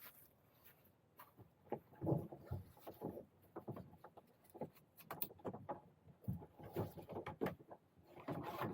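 Irregular knocks, bumps and scrapes from a plastic fishing kayak being handled off a truck-bed T-bar.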